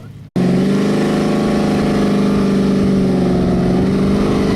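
A V8 drag-racing engine held at steady high revs, loud and even in pitch, starting abruptly just after the start.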